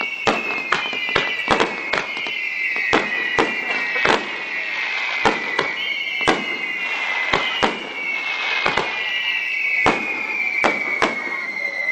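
Fireworks display: a rapid, irregular string of sharp bangs from bursting shells, roughly two a second, over a high whistling tone that slowly falls in pitch.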